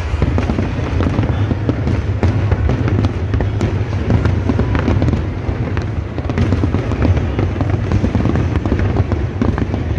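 Dense fireworks barrage: many shells bursting at once, a rapid unbroken crackling over a steady low rumble.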